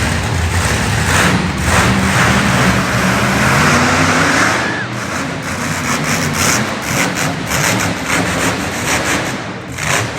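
Monster truck engine revving hard, its pitch rising and falling as the truck is driven up onto two wheels; louder in the first half, easing off after about five seconds.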